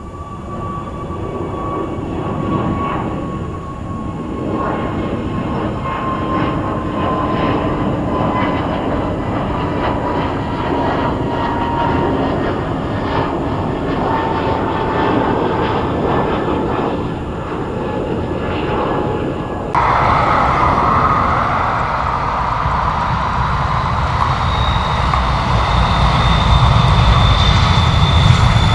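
Jet airliner engines passing, their whine gliding slowly down in pitch over the rumble. About twenty seconds in, the sound cuts to another jet airliner, with a high engine whine and a deep rumble that grows louder near the end.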